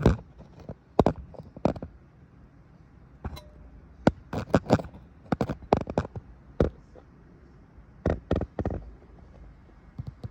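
A series of sharp knocks and clatters at irregular intervals, some single and some in quick clusters of two or three, over a low steady background.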